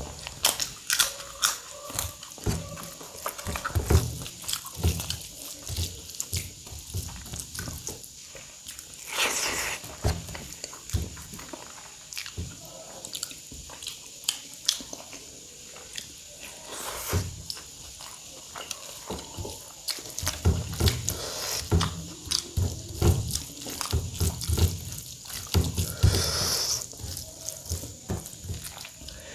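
Close-up eating sounds: a person chewing mouthfuls of rice and curry with wet, smacking clicks and occasional crunches, as of fried papad.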